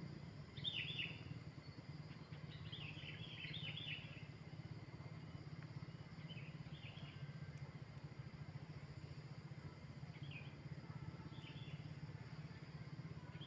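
Faint bird chirps in short clusters of quick notes, coming every few seconds, over a steady low hum.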